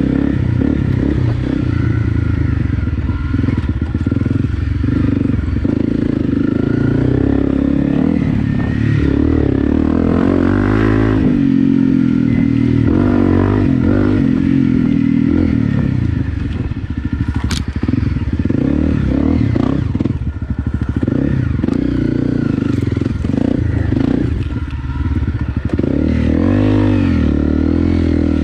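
Honda CRF250 Rally's single-cylinder 250 cc engine running under load as the bike is ridden off-road in second gear, the revs rising and falling with the throttle.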